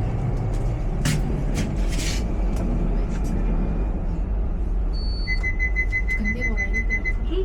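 Underground station ambience: a steady low rumble with a few short hissing bursts about a second or two in. Near the end a rapid run of high electronic beeps, about six a second, with voices starting under them.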